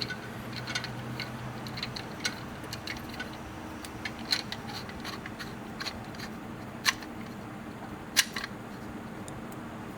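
Scattered light metal clicks and taps as a small screw-type caliper piston compressor tool is fitted against a brake caliper's pistons, with two sharper clicks about seven and eight seconds in. A faint steady hum lies underneath.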